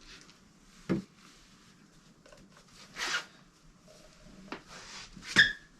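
Handling noises while engine oil is being measured and added: a sharp knock about a second in, a brief rustle or scrape about three seconds in, and two more knocks near the end, the last the loudest with a slight ring.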